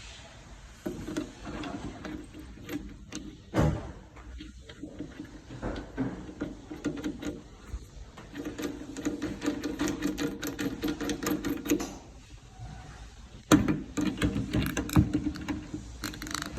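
A small motor running in several runs of a few seconds each, with a steady hum and rapid rattling clicks, and one louder knock a few seconds in.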